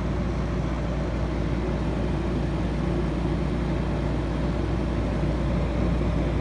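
1965 GE Thinette 6000 BTU window air conditioner running and cooling, its compressor and shaded-pole fan motor on: a steady low hum under an even rush of air.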